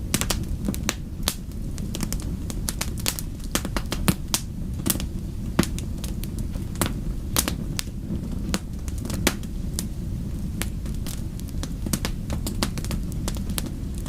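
Wood fire crackling: irregular sharp snaps and pops, several a second, some louder than others, over a steady low rumble.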